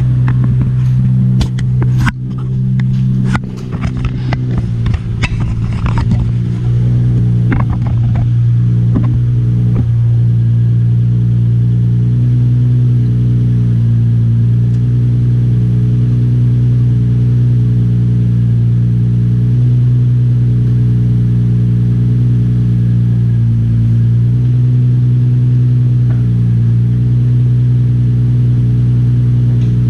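Nissan 350Z's VQ35DE V6 idling steadily through an ISR single-exit cat-back exhaust, a deep, even drone. A few sharp clicks and knocks come in the first several seconds.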